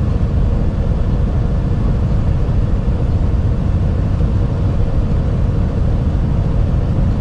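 Truck cab interior while driving: a steady low rumble of engine and road noise, with a faint steady hum.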